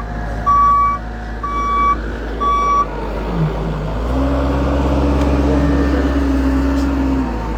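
A vehicle's reversing alarm beeping three times, about a second apart, stopping about three seconds in. About four seconds in, a vehicle engine's steady drone comes in and runs until shortly before the end.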